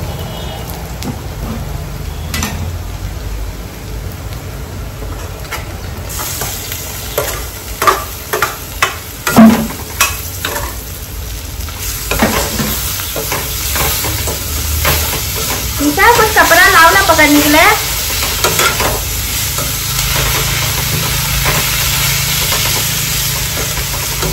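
Chicken and chicken livers frying in oil in a pan, sizzling steadily while a spatula stirs and scrapes them, with a run of sharp knocks against the pan about eight to ten seconds in. The sizzle gets louder about six seconds in.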